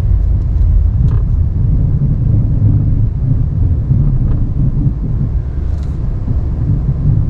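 Ram 1500 Classic pickup's engine running slowly under load as the truck pushes its lowered straight-blade snowplow through deep snow, heard from inside the cab as a steady low rumble.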